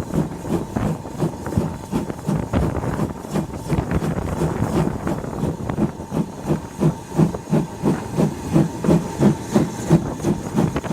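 LMS Ivatt Class 2MT tank locomotive 41312 working a train under steam, its exhaust beating in a steady rhythm of about three to four beats a second over the rumble and hiss of the moving train. The beats grow sharper and louder in the second half.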